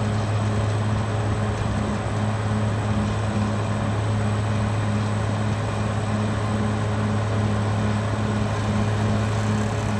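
Caterpillar D6R XL bulldozer running steadily: a constant low diesel hum with a higher tone that pulses about twice a second.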